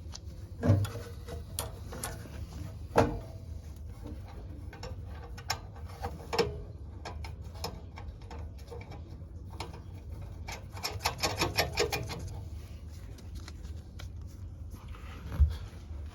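Hand work on water heater parts and tools: scattered sharp knocks and clicks, with a quick run of about ten clicks around eleven seconds in.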